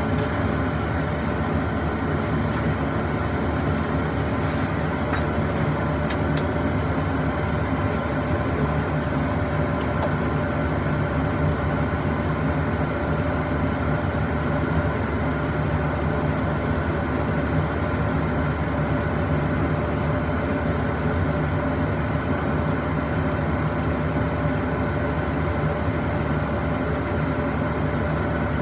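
A heavy engine running steadily: a constant, unchanging drone with a steady hum.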